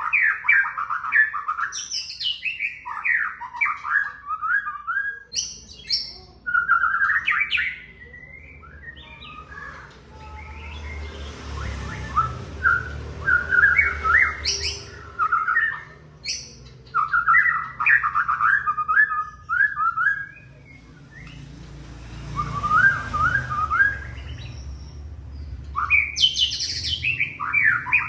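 White-rumped shama (murai batu) singing in full song: bursts of rapid chattering and whistled notes that jump about in pitch, with the odd high whistle, repeated every few seconds with short pauses between. A faint low rumble sits under a couple of the pauses.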